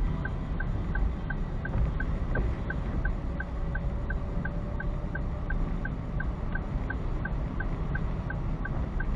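Steady low rumble of a car driving, heard from inside the cabin, with a turn-signal indicator ticking evenly about three times a second.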